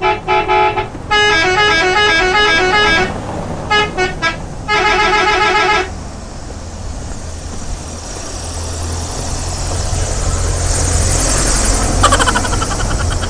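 Cartoon vehicle sound effects: a horn beeping a short tune in stepped notes, then a rising engine rumble and rushing noise, with a brief horn blare about twelve seconds in.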